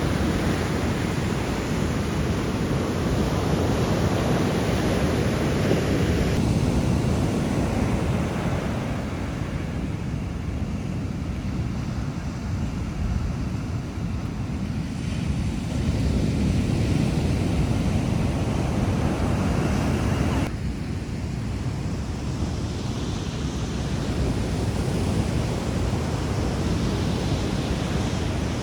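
Ocean surf breaking on the shore, a dense steady wash that swells and eases, with wind buffeting the microphone. The sound shifts abruptly about six seconds and about twenty seconds in.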